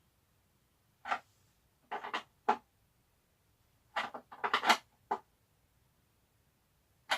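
Short, irregular knocks and clatters of hand tools and small parts being handled and set down, in groups about a second, two seconds and four seconds in, during work on a scooter's fuel tank mount.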